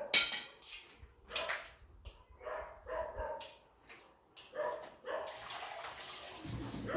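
An animal calling in short separate calls, about five of them, with a sharp loud knock at the very start.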